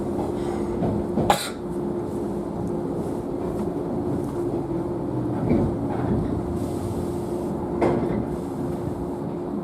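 Inside a JNR 113-series electric train coach: a steady hum under broad running noise, with two sharp knocks, a loud one about a second in and another near the end.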